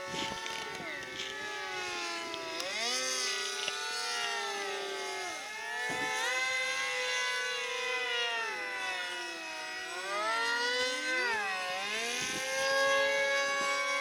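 Several electric RC model airplanes flying at once, their motors and propellers whining in overlapping tones whose pitch keeps rising and falling.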